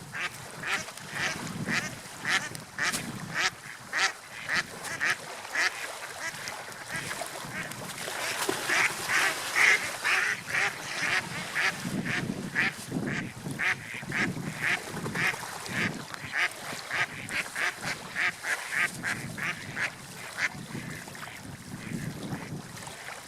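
A flock of ducks or geese calling with short repeated calls, about two or three a second, busiest in the middle and stopping just before the end. Under them runs a low wash of water and wind.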